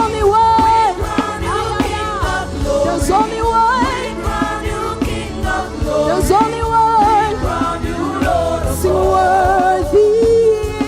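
Live gospel worship music: voices singing a wavering melody over a full band with steady drum beats.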